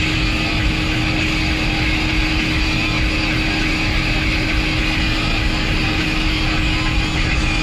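Steady vehicle noise on the road, with a constant hum and no let-up.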